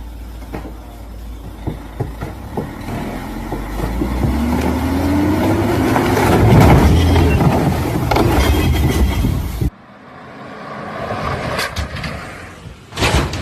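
Off-road truck engine running hard under load, its pitch rising over a few seconds as it revs up to a peak about two-thirds of the way in, over a dense rattling din. The sound then cuts off suddenly, and a quieter passage with a couple of sharp knocks follows.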